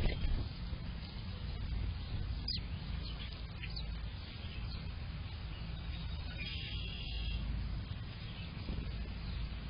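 Wild songbirds calling in short scattered chirps, with a brief trill about two-thirds of the way in, over a steady low rumble.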